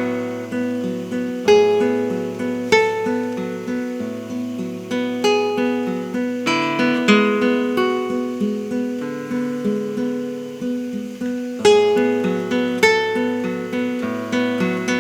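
Solo acoustic guitar playing a piece, with notes plucked in quick succession and left ringing over one another, several sharper accents standing out.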